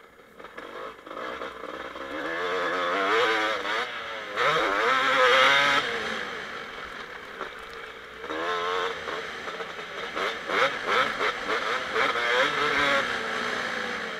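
2007 Kawasaki KX250 two-stroke motocross engine revving up and down under the rider, its pitch rising and falling as the throttle is opened and closed. It starts fairly quiet, picks up after a second or two and is loudest about halfway through.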